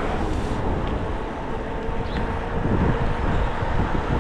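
Wind buffeting the microphone of a moving e-bike, over the noise of street traffic, with a faint steady whine underneath.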